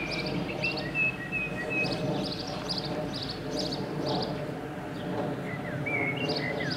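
Small birds chirping and singing: a short high chirp repeated about twice a second and a few whistled, gliding notes, over a steady low background rumble.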